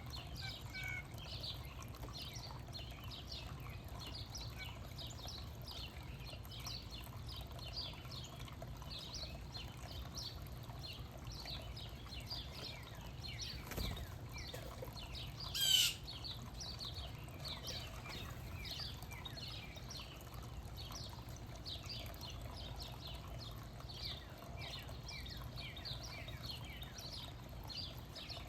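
Small backyard birds chirping and twittering, many short quick chirps overlapping throughout. About sixteen seconds in, one louder, sharp call stands out above the rest.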